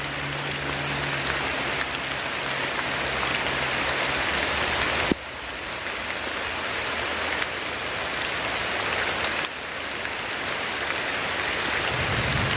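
Heavy tropical rain falling on rainforest foliage, a steady dense hiss of drops. The level drops abruptly twice, about five and nine and a half seconds in, then builds up again.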